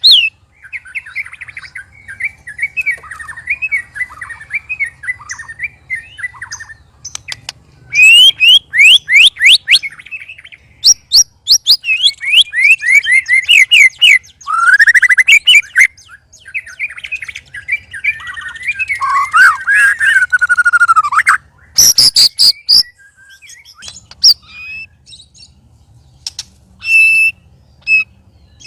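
White-rumped shamas singing loud, varied song: fast whistled trills, quick falling sweeps and harsh chattering phrases, separated by short pauses. This is the song of shamas provoked by a rival, which comes out loud and strange-sounding.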